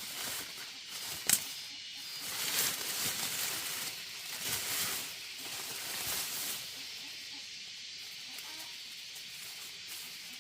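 Rain falling steadily, an even hiss that swells louder between about two and seven seconds in, with one sharp knock about a second in.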